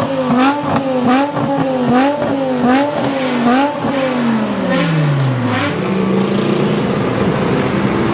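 Performance car engine revved in quick blips, its pitch rising and falling about twice a second with sharp cracks among them; about four seconds in the revs drop away over a couple of seconds and settle into a steady lower running sound.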